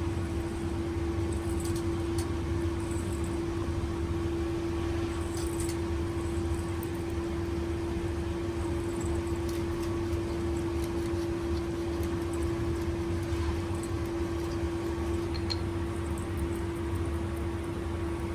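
A steady mechanical hum: one constant pitched drone over a low rumble, unchanging throughout, with a few faint light clicks.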